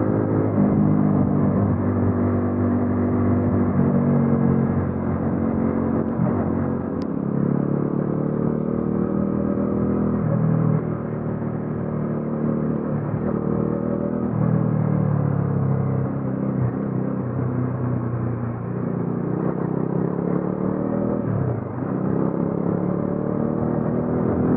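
Bajaj Dominar 400's single-cylinder engine and exhaust on the move, its pitch repeatedly climbing under acceleration and falling back at shifts and roll-offs.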